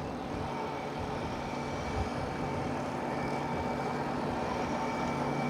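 Steady motor hum with a few faint held whining tones, slowly growing louder.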